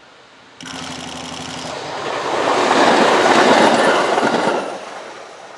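IGR 7000 series electric train sounds a short, buzzing horn blast of about a second, then passes close by. The running noise of its wheels on the rails swells to a loud peak and fades away.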